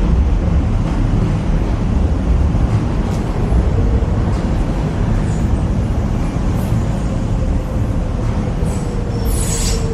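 Docklands Light Railway train running on its tracks with a steady rumble. From about four seconds in there is a faint whine slowly dropping in pitch, and near the end a brief high hiss.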